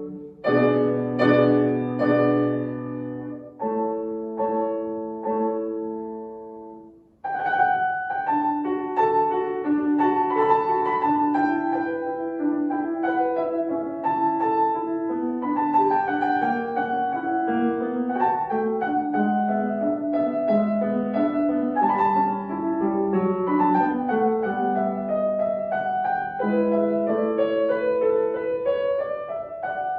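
Solo piano playing classical music. Held chords ring and fade over the first few seconds, there is a brief pause about seven seconds in, and then a flowing melody over a moving accompaniment runs on steadily.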